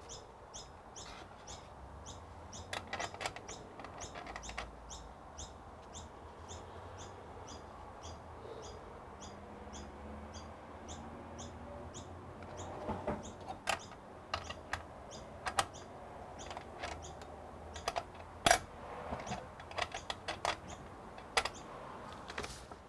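Small hard clicks and knocks of CPU cooler mounting hardware being handled and fitted, sharpest in the second half. A repeated high chirp, about two a second, sounds in the background through the first half.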